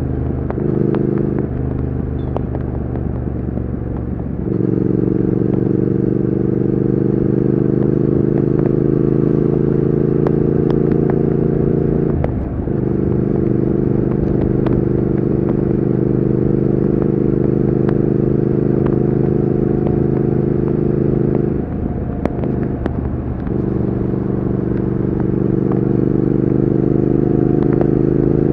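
Triumph Speed Twin 1200's parallel-twin engine and exhaust running under way. The note is lighter for the first few seconds and picks up about four seconds in. It then holds steady, dropping briefly about twelve seconds in and again for a second or two about twenty-two seconds in.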